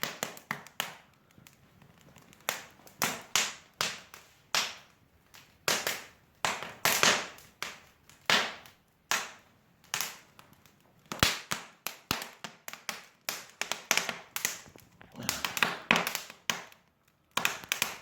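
Wood fire crackling in an open fireplace, with irregular sharp pops and cracks, sometimes several close together, from burning damp firewood and a freshly added stump.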